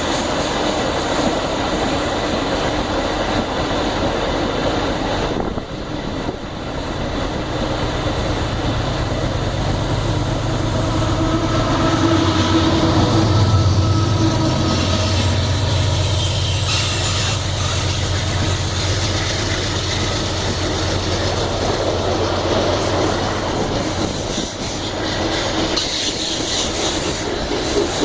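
Iron-ore freight train passing at close range: a steady rumble and clatter of wagon wheels on the rails. From about a third of the way in, a diesel locomotive's low engine drone rises, is loudest around the middle and fades again.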